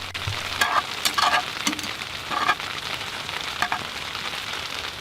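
Peppers, onions, chuck roast and potatoes sizzling steadily in a pan on a wood stove, with a utensil stirring and knocking against the pan a few times.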